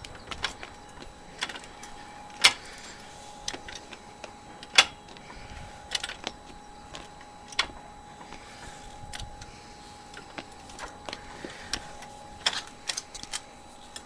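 Car jack being worked by hand to lift the car: irregular metallic clicks and knocks, two of them much louder, over a faint steady tone.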